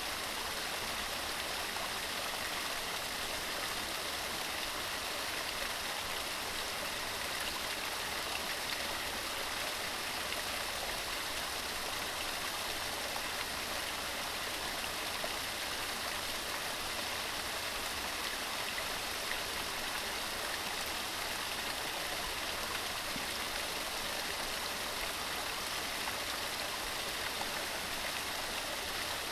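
Mountain stream running steadily over rocks, a continuous rushing of water.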